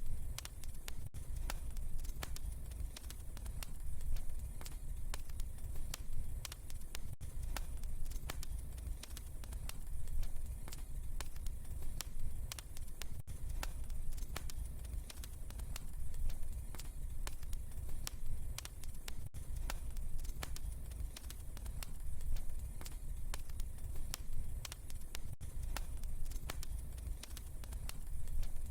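Wood fire crackling steadily, with frequent small irregular pops and snaps over a low rumble of burning flames.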